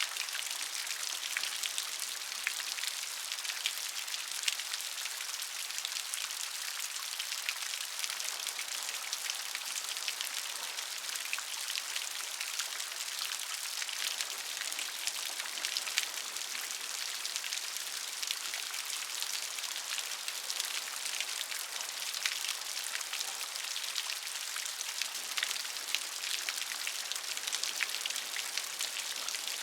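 Steady rain, a dense hiss of drops with many small individual patters on a surface.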